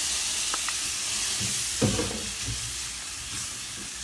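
Chopped tomatoes sizzling in the hot curry base in a pot as they are stirred in with a wooden spoon. The sizzle is loud at first and slowly dies down, with one knock about two seconds in.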